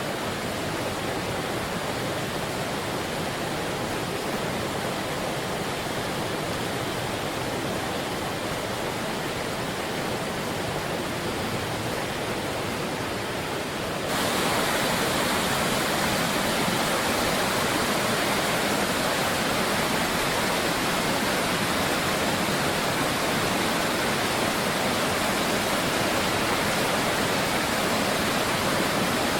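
Steady rush of fast water in a rain-swollen river. About halfway through it jumps abruptly louder and brighter, then holds steady.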